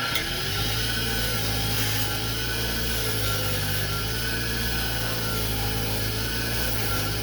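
Electric wire wheel coming up to speed and running steadily while the freshly quenched steel flint striker is pressed against it to scrub off forge scale. It is a steady motor hum under a brushing hiss, with a tone that wavers slightly as the piece is worked.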